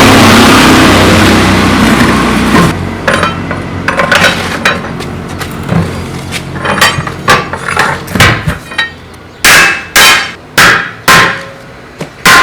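A loud steady machine noise stops abruptly about two and a half seconds in, followed by hammer blows: scattered lighter knocks, then about five heavy, ringing strikes in quick succession near the end.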